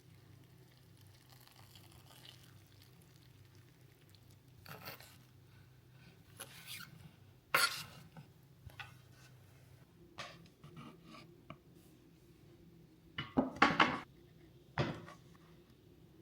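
Dishes and utensils being handled in a kitchen: scattered clinks and knocks over a faint steady hum, with the loudest quick run of clatter toward the end.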